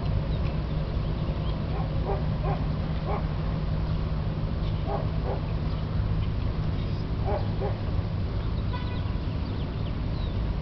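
About seven short animal calls in twos and threes over a steady low rumble.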